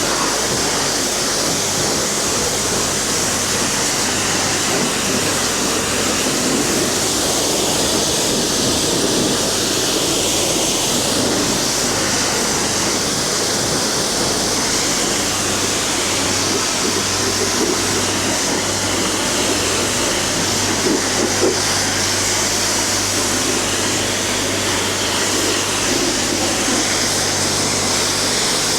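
High-pressure spray wand at a self-serve car wash blasting water in a steady hiss, with a steady low hum underneath.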